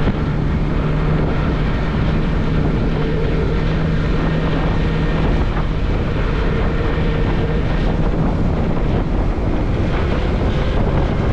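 Yamaha MT-03 motorcycle engine running at a steady cruise under heavy wind noise on the microphone. The steady engine note fades about halfway through, leaving mostly wind.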